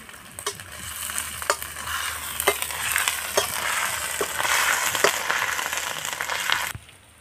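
Chopped onion, garlic, green chilli and ginger sizzling in hot oil in a metal kadai, stirred with a steel spatula that knocks and scrapes against the pan about once a second. The sizzle cuts off abruptly near the end.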